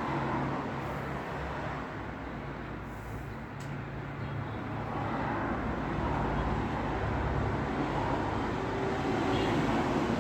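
Road traffic: a steady wash of tyre and engine noise with a low engine hum, swelling as vehicles pass and growing louder in the second half.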